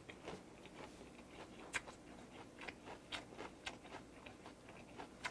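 A man chewing a full mouthful of grilled pork wrapped with raw onion and garlic: faint wet mouth clicks and smacks, with a few sharper clicks scattered through.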